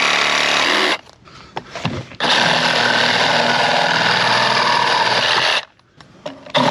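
Milwaukee M12 Hackzall, a one-handed cordless reciprocating saw fitted with a wood-with-embedded-nails demolition blade, cutting through wood in three bursts. It stops about a second in, runs again for about three seconds, and starts once more near the end.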